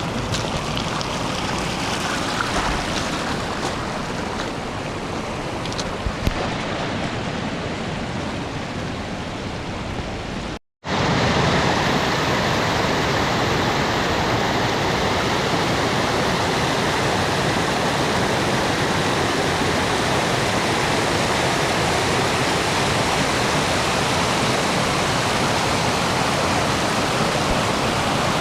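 Steady rushing of flowing water, as from a stream swollen by rain. About ten seconds in it cuts out for a moment, then comes back a little louder.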